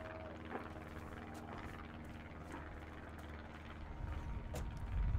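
Fireworks going off at a distance: scattered sharp cracks over a steady low hum, then heavier deep booms from about four seconds in.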